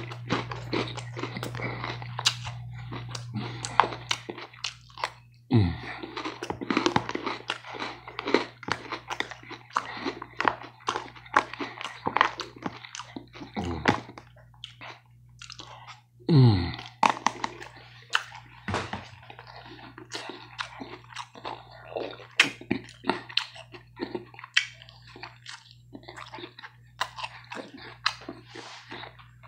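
Close-up chewing of crunchy salad, in many quick crisp crunches, with a fork picking at food in a plastic container between bites. A steady low hum runs underneath.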